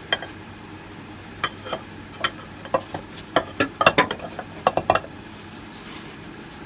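Irregular sharp metal clinks and knocks, about a dozen over five seconds, from hand tools and suspension parts being handled during front airbag removal.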